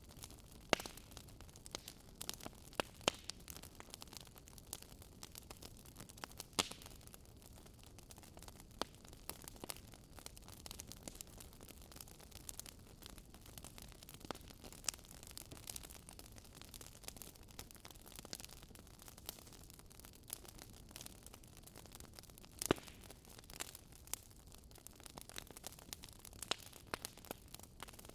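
Campfire crackling: irregular sharp pops and snaps of burning wood over a soft, steady hiss.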